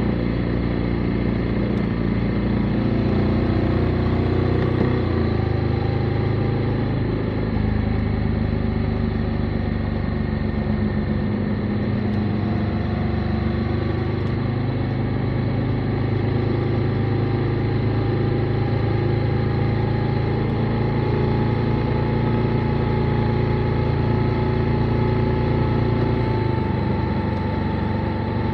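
Motorcycle engine running steadily under way, its pitch shifting a little now and then, over a wash of wind and road noise.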